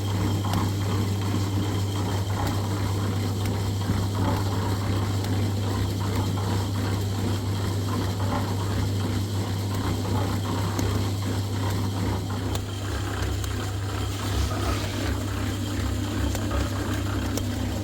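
A machine running steadily with a constant low hum and a dense, irregular clicking and rattling over it.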